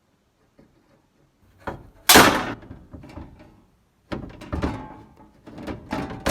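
Hand-lever sheet-metal punch shearing a drain hole through a steel door patch panel, giving one sharp metallic snap about two seconds in. Metal clanks and knocks from handling the tool and panel follow, and another sharp snap comes at the very end.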